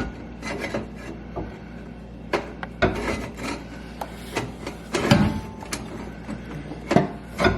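Metal exhaust pipe scraping and knocking against the H-pipe as it is worked by hand to slide over the joint, with irregular knocks and rubbing. The pipe will not go on.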